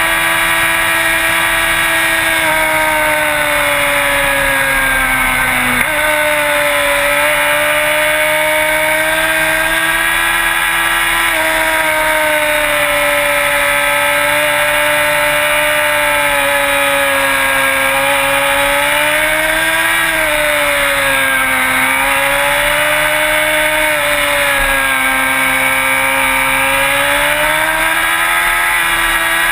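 Sport bike engine running at high revs while riding, its pitch sagging and climbing with the throttle, with a sudden jump in pitch about six seconds in.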